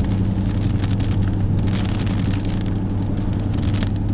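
Chase vehicle's engine running with a steady low drone, and scattered ticks of rain striking the car.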